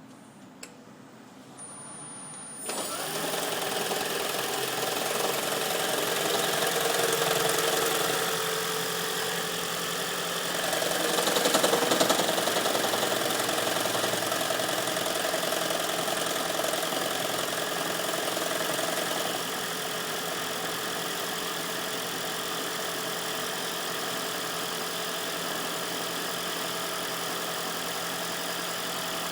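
A 2010 Toyota Prius's 1.8-litre four-cylinder petrol engine starts up cold about two and a half seconds in and runs with knocking and shaking, a fault the owner sees on cold starts near freezing that clears after 30–45 seconds of running. The engine is loudest around eleven to thirteen seconds in, then settles to a quieter steady run about nineteen seconds in.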